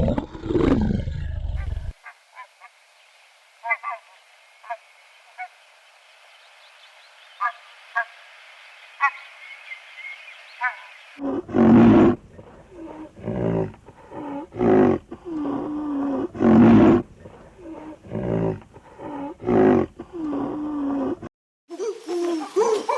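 Animal calls in three parts. A deep roar dies away in the first two seconds. Then faint short chirps sound over a soft hiss. From about halfway in comes a run of loud, repeated calls, each a fraction of a second to about a second long, stopping shortly before the end.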